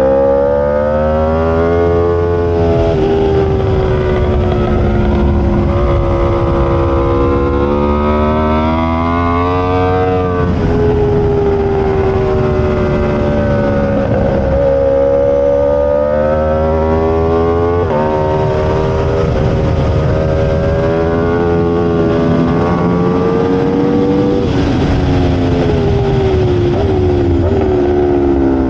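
Aprilia RSV4 V4 sportbike engine at racing speed, its pitch climbing and falling again and again as it revs through the gears. The pitch drops suddenly at each shift and falls away on the brakes into corners.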